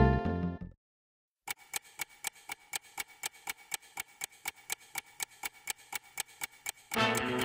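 Music fading out, a short silence, then a steady ticking of sharp clicks, about five a second; rock music with guitar starts near the end.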